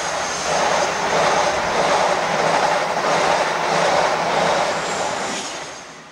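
Train noise that swells up, holds for a few seconds and fades away, with a thin, steady high whine over it.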